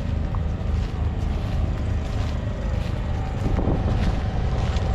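Fendt 728 Vario tractor's 7.5-litre six-cylinder diesel engine running steadily, with a few light rattles over the low engine sound.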